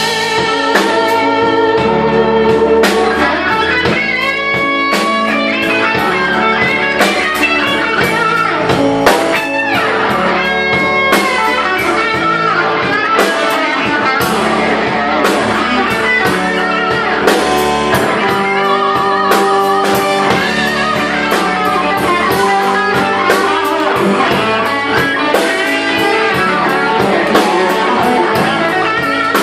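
Live blues band playing an instrumental stretch led by electric guitar, with bass and drums keeping a steady beat.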